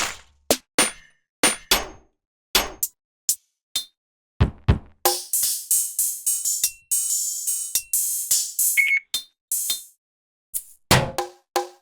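Drum samples from a sample library played one at a time: a run of short single hits separated by silence, two low thumps about four and a half seconds in, then several longer noisy effect sounds, and a few pitched hits near the end.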